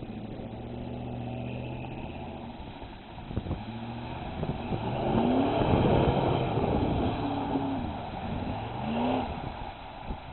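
Dodge Dakota 4x4 pickup engine running steadily, then revving hard twice, about halfway through and again near the end, as the truck works through mud. The loudest stretch comes with the first rev.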